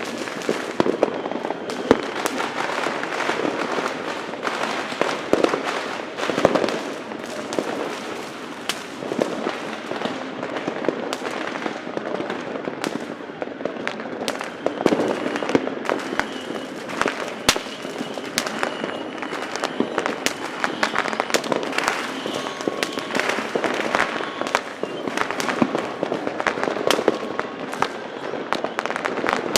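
Many fireworks and firecrackers going off at once, a dense unbroken barrage of overlapping sharp bangs and pops over a constant crackle.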